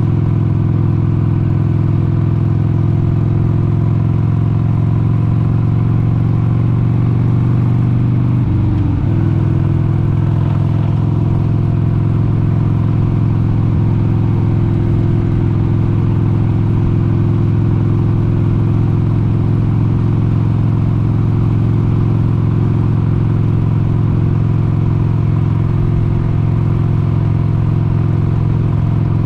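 1996 Harley-Davidson XLH883 Sportster's air-cooled 883 cc Evolution V-twin running at a steady cruising speed, its note holding even except for a brief dip and recovery in pitch about nine seconds in.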